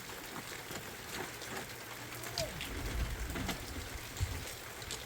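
Steady rain with many single drops ticking, and a few dull low thumps between about two and a half and four and a quarter seconds in.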